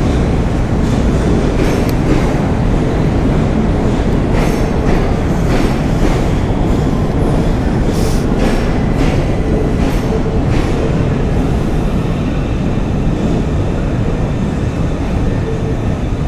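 A train running on rails: a loud, steady rumble with irregular sharp clacks of wheels over rail joints for the first ten seconds or so, easing slightly near the end.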